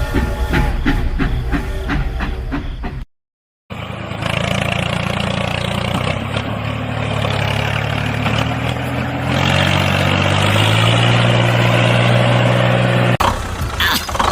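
A steady mechanical hum, like a small motor or engine running, whose pitch steps up about two-thirds of the way through and then cuts off suddenly. It is preceded by a short rhythmic passage and a brief dropout.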